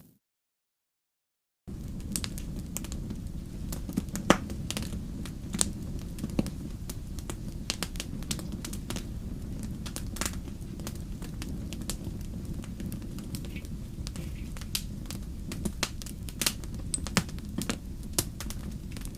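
Campfire crackling: wood burning with a steady low rumble and irregular sharp pops and snaps. It cuts in suddenly after about a second and a half of silence.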